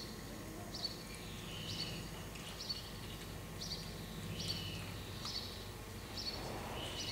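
A small bird chirping over and over, short two-note chirps about once a second, over a steady low hum.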